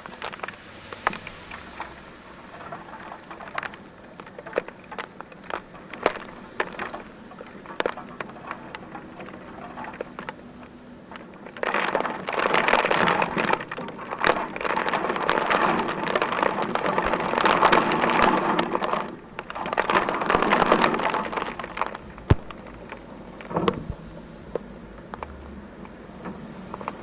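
Heavy rain falling, with individual drops ticking and pattering close by. About halfway through, a louder, dense hiss rises abruptly and lasts about nine seconds, with a brief dip near its end, before falling back to scattered drops.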